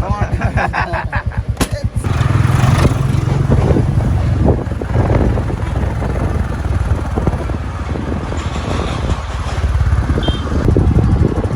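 Motorcycle engine running with an even low chug, growing louder about two seconds in as the bike pulls away and rides on.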